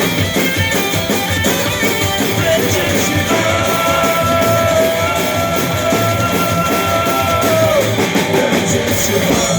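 Live rock band playing with guitars and a drum kit. A long held note rings out from about three and a half to eight seconds in, over steady drumming.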